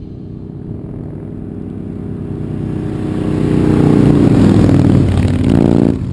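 Motorcycle engine running, growing steadily louder as it comes closer, then dropping off suddenly near the end.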